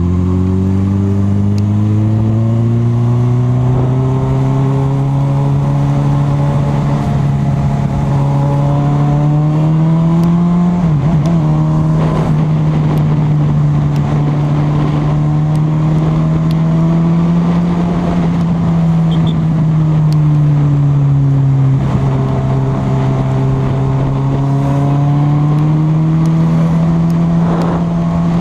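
Honda CB1000R's inline-four engine heard from the moving bike, its pitch climbing steadily over the first ten seconds or so as it accelerates, then holding a steady cruise with gentle rises and falls.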